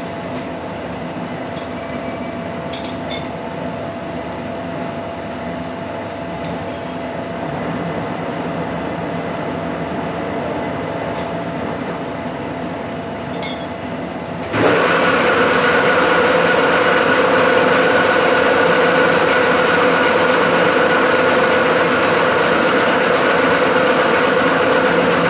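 A metalworking machine running with a steady mechanical hum and faint clicks. About halfway through it steps up suddenly to a louder, steady whine, as if a second drive or the cut starts.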